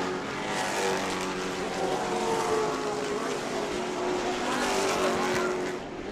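Several pro trucks' engines running at racing speed around a short track, their pitches sliding as the pack goes by.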